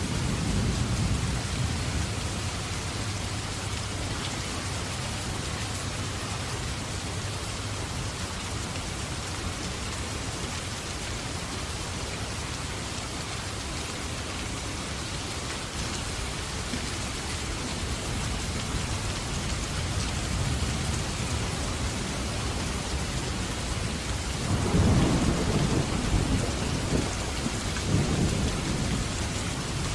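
Steady rain falling, with rolling thunder: a low rumble at the start and a louder, longer rumble beginning about 24 seconds in.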